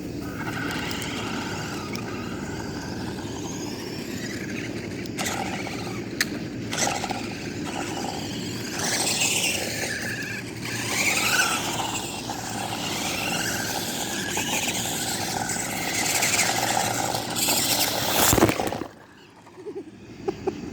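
Toy radio-controlled cars running on the street, their small electric motors whining and rising and falling in pitch as they speed up and slow down. The running stops abruptly near the end.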